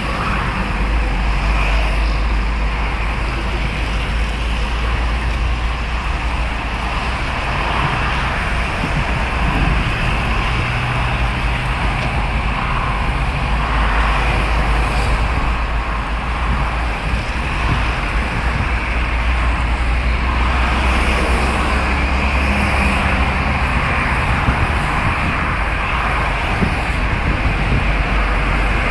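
Steady rain falling: a constant hiss with a deep rumble underneath.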